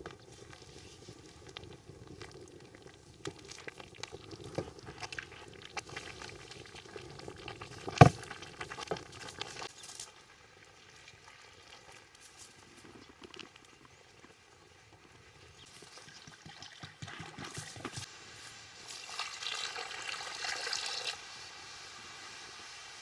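Cooking at a pot over a wood fire: scattered knocks and scrapes of utensils, with one sharp clank about eight seconds in. Near the end comes a couple of seconds of hissing liquid sound.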